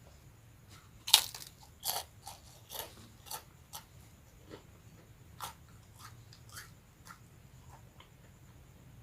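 Close-miked bite into a crispy rambak (cow-skin cracker) about a second in, followed by crunchy chewing that grows softer and sparser over several seconds.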